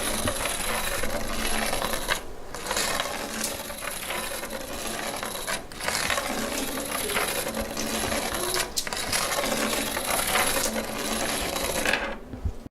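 A homemade electric train, a battery with magnets on its ends, rattles and clinks as it runs through a bare coiled copper wire. The rattle breaks off briefly three times.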